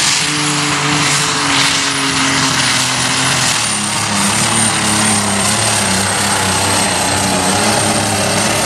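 Heavy super stock pulling tractor's turbocharged diesel engine running hard under load down the pull track, with a high steady whistle above it. Its pitch drops a step about three and a half seconds in, then holds.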